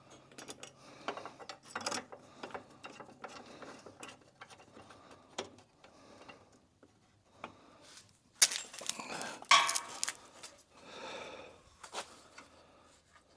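Hand work on bumper brackets and hardware: scattered clicks, clinks and rattles of metal and plastic parts being handled, with a louder clatter about eight and a half seconds in.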